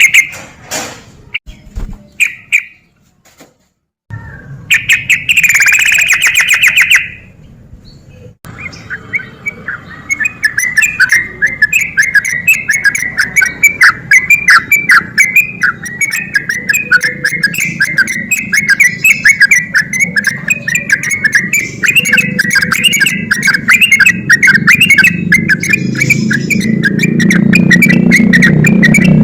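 Yellow-vented bulbul (trucukan) singing loud, fast chattering phrases. A few short bursts with silent gaps come in the first eight seconds, then a long unbroken run of rapid notes.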